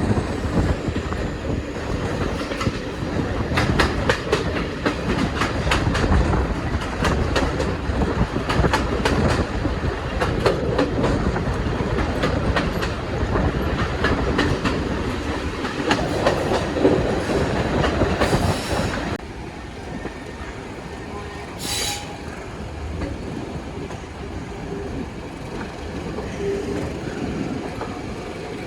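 Train wheels clattering over jointed rail in a fast, dense run of clicks over a heavy rumble. About two-thirds of the way through, the clatter stops suddenly and a quieter rumble remains.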